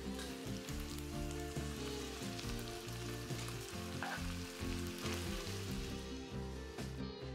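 Spaghetti, cabbage and tuna sizzling in a hot frying pan as they are tossed together with tongs, with a few light clicks, over background music. The sizzling dies away near the end.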